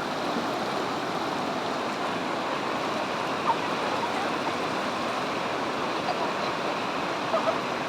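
Waterfall and stream water rushing in a steady, unbroken wash.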